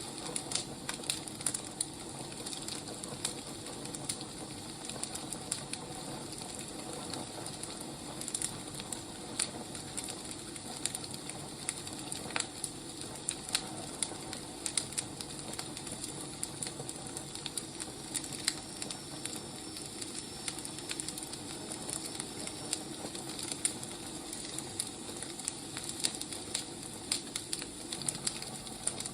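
Wood fire crackling: a steady hiss with frequent irregular snaps and pops from burning logs.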